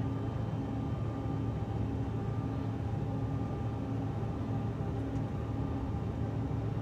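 Steady engine drone of a regional airliner heard inside the cabin, a low hum with a tone that pulses about twice a second.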